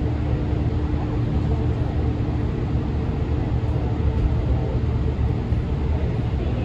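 JR Central 313 series electric train running at speed, heard from inside the passenger car: a steady low rumble of wheels and running gear on the track. A faint steady whine runs under it and fades away about halfway through.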